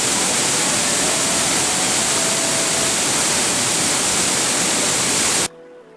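Waterfall: loud, steady rush of falling water that cuts off suddenly about five and a half seconds in, leaving faint music.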